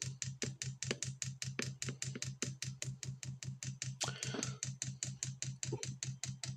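Diesel heater fuel dosing pump ticking rapidly and evenly while priming the fuel line, over a steady low hum.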